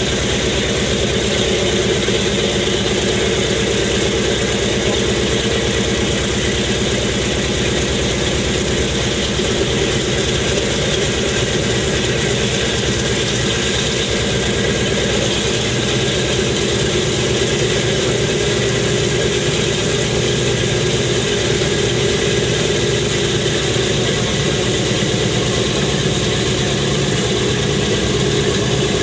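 An engine idling steadily, with a fast, even beat that holds the same pitch and loudness throughout.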